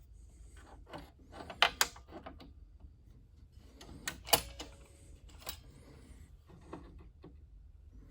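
Clamps and steel fixture parts being handled and adjusted on a metal welding table: scattered sharp clicks and knocks, the loudest a pair about a second and a half in and another pair about four seconds in.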